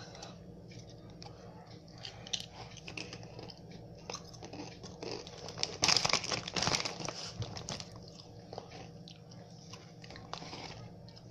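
A person crunching and chewing expired chips close to the microphone, a run of short crackly crunches that is loudest and busiest about six to seven seconds in.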